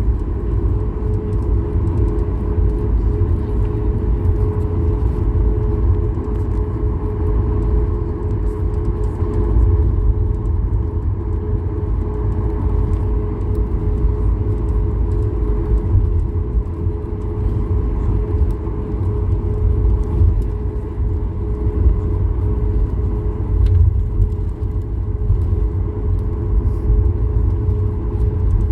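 Cabin noise of a Boeing 737-8200 MAX: its CFM LEAP-1B turbofans running at a steady setting, heard as a deep, uneven rumble under a steady hum.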